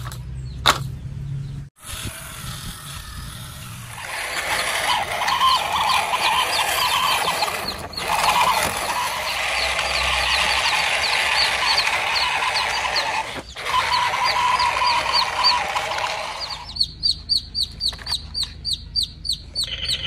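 A dense chorus of small birds chirping. It thins near the end to quick chirps repeated about three times a second. A low hum underlies the first two seconds.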